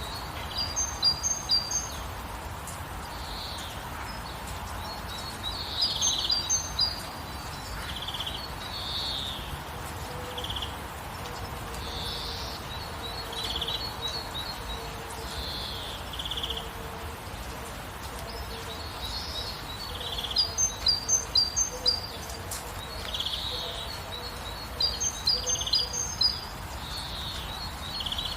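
Songbirds singing short phrases of quick, high chirps every few seconds over a steady hiss of rain.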